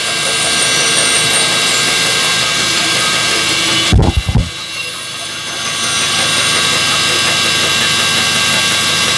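Bandsaw running and cutting through a wooden piece, a steady motor-and-blade noise with a high whine in it. About four seconds in there are a few heavy knocks close together, after which the sound briefly drops and then picks back up.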